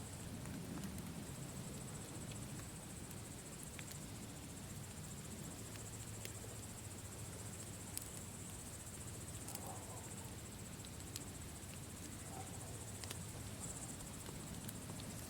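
Campfire burning with a low steady rumble and scattered small crackles and pops, the sharpest about eight seconds in. Crickets chirp in a steady high trill throughout.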